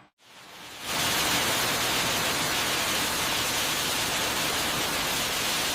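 A steady, even hiss spread across all pitches, fading in within the first second after a brief silence.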